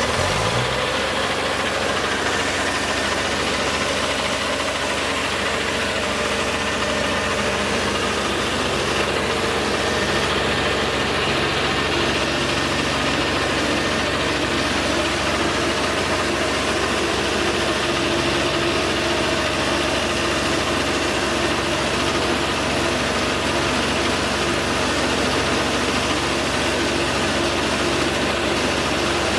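An engine running steadily, a constant hum with several held tones that does not change in speed.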